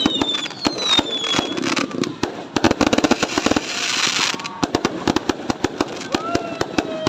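Fireworks going off: rapid pops and crackling throughout, with whistling shells falling in pitch near the start and a dense burst of crackle in the middle.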